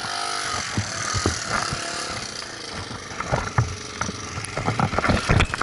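Motorcycle engine running, with many short knocks and rattles that come thicker in the second half.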